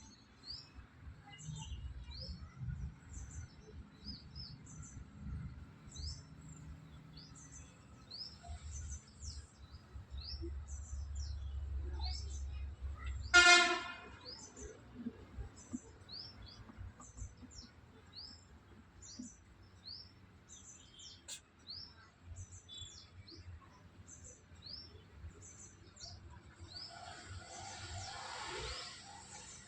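A bird chirping over and over, short high chirps about once a second, over a low rumble that stops about thirteen seconds in. Just then a single loud, brief pitched sound cuts in, the loudest thing here.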